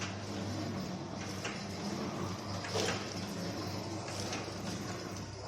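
Model 505 liquid sachet filling and four-side-sealing machine running: a steady electrical hum with a sharp clack about every one and a half seconds, one per machine cycle.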